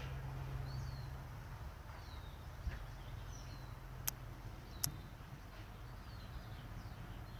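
Small birds chirping, a series of short, falling calls repeated every second or so over a steady low hum, with two sharp clicks about four and five seconds in.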